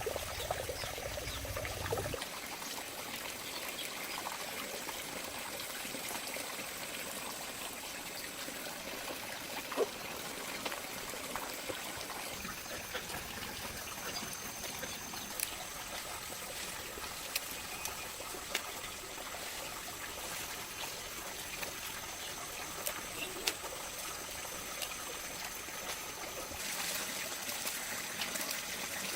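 Water trickling and pouring steadily, with scattered small clicks and a faint steady high tone over it.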